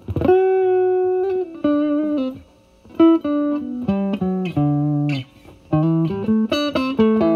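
Fender Stratocaster through a Vertex Steel String Clean Drive overdrive pedal, set at gain 9 into a Marshall Valvestate amp's clean channel, playing a bluesy single-note lead line. It opens with a long held note that drops down in pitch, pauses briefly, then plays a run of separate picked notes.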